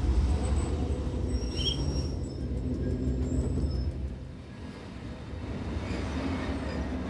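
Rhaetian Railway electric train running close by on metre-gauge track: a steady low rumble, with a few brief high-pitched squeals about two seconds in. The rumble drops away about four seconds in, leaving a quieter steady train noise.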